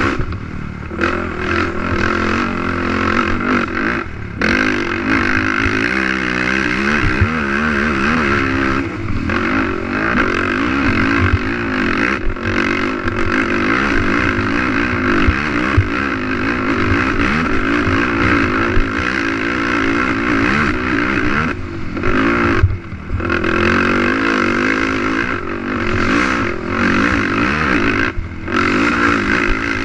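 Race quad's engine at racing revs, its pitch rising and falling over and over as the rider accelerates and backs off, with brief throttle lifts several times, and rattling from the machine over rough track.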